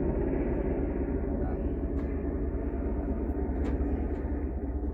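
Black Hawk helicopter flying overhead: a steady low rumble, with a couple of faint sharp clicks about two seconds in and again near four seconds.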